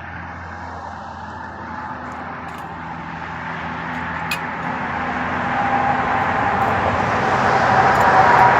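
A road vehicle running, its engine and road noise growing steadily louder throughout.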